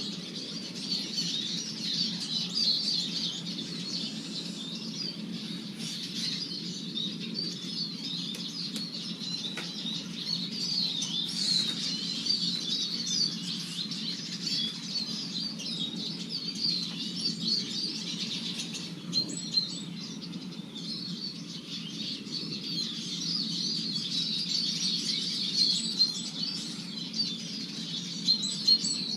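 A flock of Eurasian siskins twittering and chattering without pause, over a steady low hum. A few short sharp taps come in the second half.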